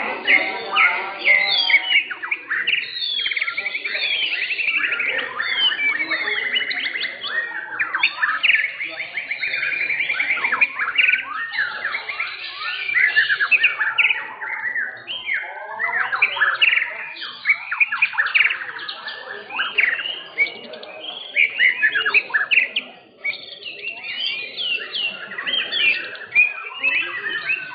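Several white-rumped shamas singing at once: a dense, overlapping stream of rapid whistles, trills and chirps, with a brief lull about 23 seconds in.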